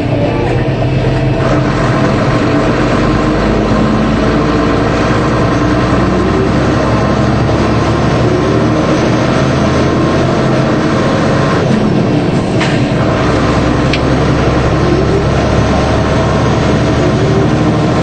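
DAF truck driving along at a steady pace: continuous engine drone and road noise.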